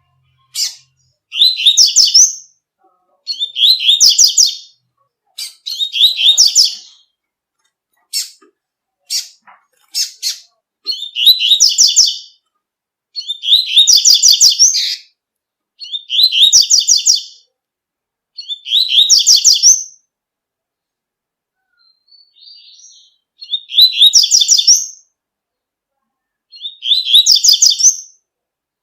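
A coleiro (double-collared seedeater) singing its 'tui-tui' song: about nine loud, high, fast-trilled phrases of about a second and a half each, repeated every two to three seconds. Some short sharp chips fall between the phrases near the middle.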